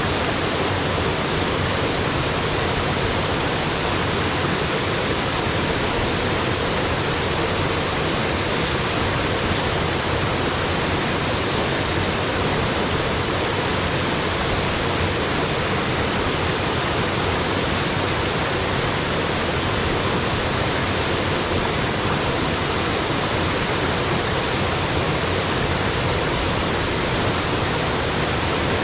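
Waterfall pouring steadily into a mountain stream: a loud, even, unbroken rush of water.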